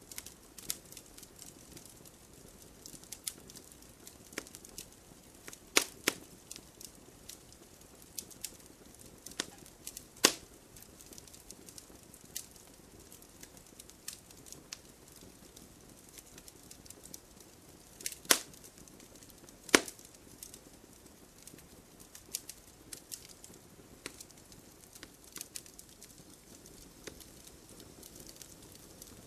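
Wood fire burning in a fireplace: firewood crackling with irregular small snaps throughout and a few louder sharp pops.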